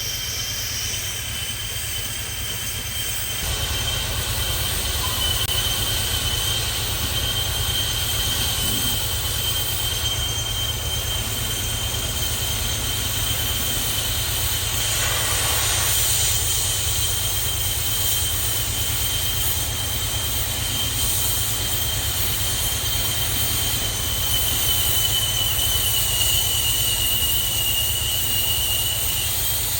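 Heavy boring machine cutting a steel pipe: a steady high-pitched whine from the tool on the metal, held throughout over a low machine rumble that grows louder a few seconds in.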